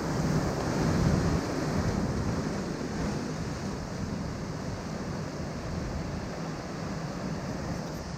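Ocean surf washing over rocks, a steady rushing noise that swells in the first second or so and then eases a little.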